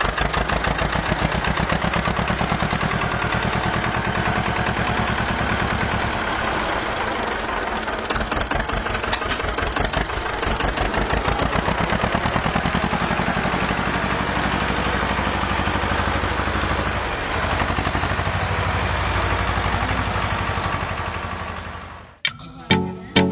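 Tractor engine running steadily with a rapid, even chugging beat. It cuts off abruptly near the end.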